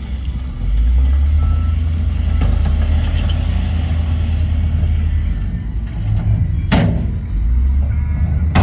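Heavy diesel engine of a construction machine running steadily under load, its low rumble picking up about half a second in. Two sharp knocks ring out near the end.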